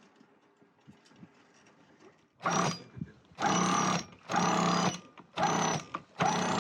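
A small electric motor whirring in five short bursts, each about half a second long with brief pauses between, starting a little over two seconds in.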